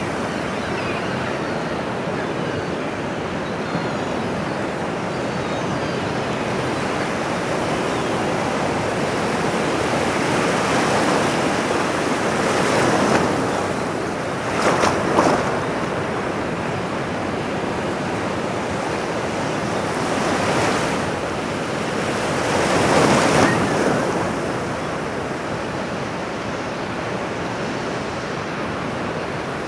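Ocean waves breaking on a shore, a continuous wash of surf with waves swelling louder about halfway through and again near 23 s.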